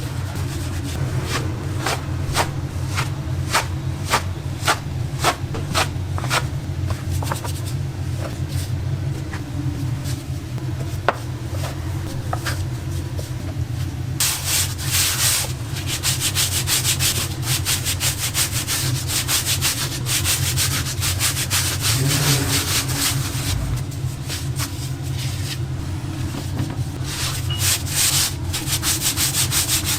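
Rapid, rhythmic rubbing and scraping over a steady low hum. About halfway through, the rubbing gets denser and louder; before that, there are scattered sharp clicks.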